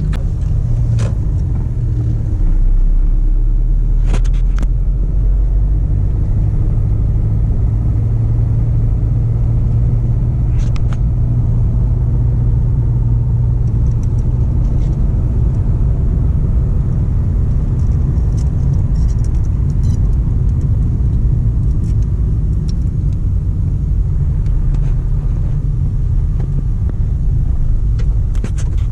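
Car on the move: a steady low engine and road rumble, with a few faint clicks.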